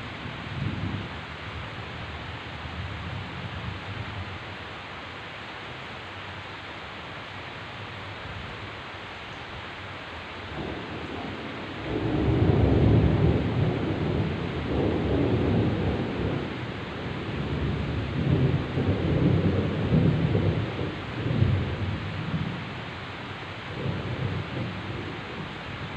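Heavy rain falling steadily, with a long rolling rumble of thunder that swells about halfway through and carries on in waves.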